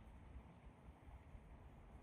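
Near silence: faint outdoor background hush with a low rumble and no distinct sound.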